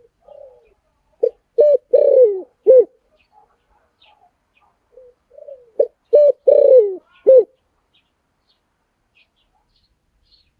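Spotted dove cooing: two phrases, each a soft lead-in followed by four loud coos, the third drawn out and falling in pitch. Faint high chirps of small birds sound near the end.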